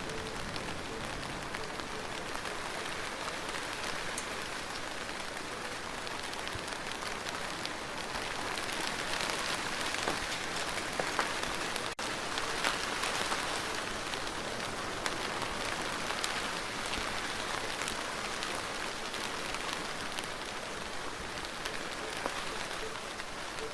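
Steady rainfall with no thunder: an even hiss of drops that swells somewhat heavier about a third of the way in, then eases back.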